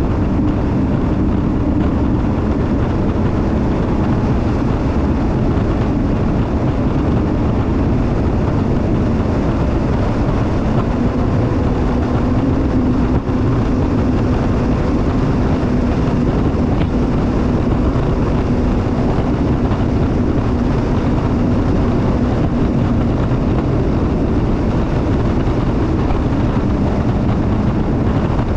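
Jet ski engine running steadily at speed under a constant rushing noise; its tone sits a little higher for about ten seconds in the middle.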